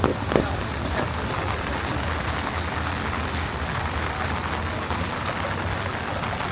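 Steady rain falling and splashing on hard surfaces, with a few sharp taps of drops in the first second.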